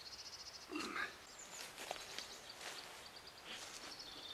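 Small birds singing: quick, evenly pulsed high trills and short falling chirps, over faint rustles and clicks.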